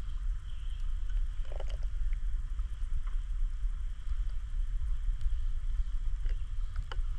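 Outdoor wind rumbling on the microphone, with a faint steady hiss and a few short faint calls, one lower call about a second and a half in and a couple of clicks near the end.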